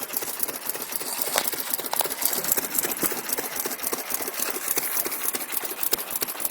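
Small 1 hp International Harvester Mogul gasoline engine running, a rapid, even clatter of ticks and knocks.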